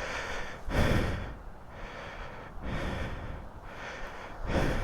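A man breathing heavily close to the microphone, with about three loud breaths roughly two seconds apart.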